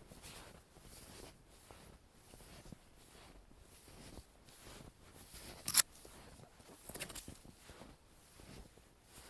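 Footsteps crunching in snow at a steady walking pace, about one step every 0.7 seconds, with a single sharp click a little past halfway.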